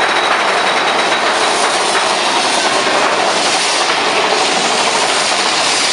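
Big Thunder Mountain Railroad mine-train roller coaster rattling along its track in a steady, loud, rushing clatter.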